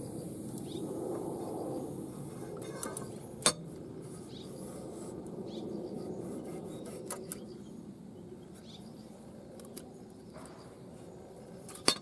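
A few sharp metallic clinks of small metal objects being handled and set down, the loudest about three and a half seconds in and just before the end, over a steady low hum.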